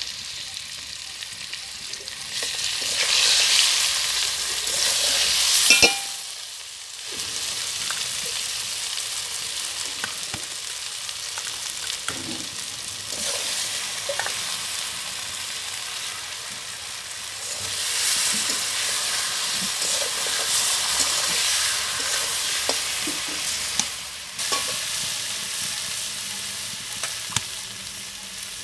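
Potato wedges frying in oil in a metal wok, sizzling as a red paste is added and stirred in, with a flat metal spatula scraping and turning them against the pan. The sizzle swells twice and drops off sharply just after six seconds.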